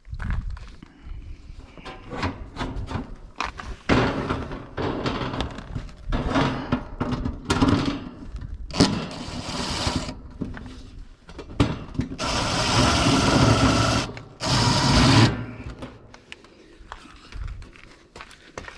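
Cordless impact driver run in a series of short bursts, rattling as it drives or backs out the screws of an AC unit's panels; the longest burst lasts about two seconds, near two-thirds of the way through.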